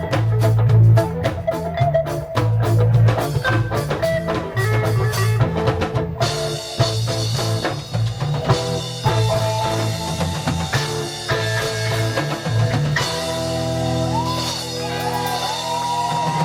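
Reggae band playing an instrumental passage: a pulsing bass and drum groove with guitar. About 13 seconds in the bass groove drops out and sustained chords ring on, with bending, gliding notes near the end.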